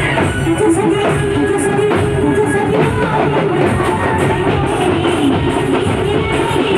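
A Marathi song: a singing voice over instrumental accompaniment, continuous and steady in level.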